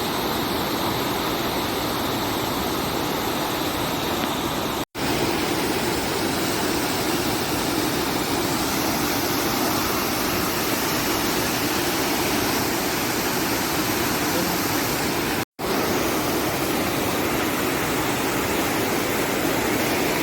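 Water of a boulder-strewn river rushing steadily over rocks, broken by two sudden brief silences, about five seconds in and about fifteen seconds in.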